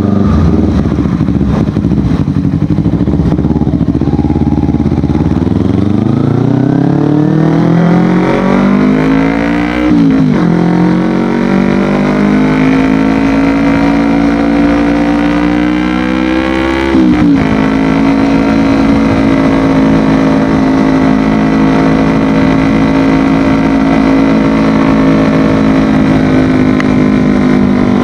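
Kawasaki Ninja 250FI parallel-twin with an Akrapovic exhaust, accelerating on the road. The engine note holds low for a few seconds, then climbs. It drops sharply at two upshifts, about ten and seventeen seconds in, and then settles into a steady cruise.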